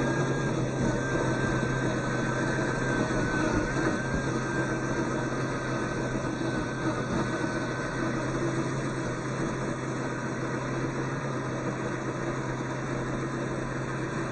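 RC4WD Chevy Blazer K5 scale RC truck running: a steady low hum with a thin whine that wavers slightly in pitch and fades out about halfway through.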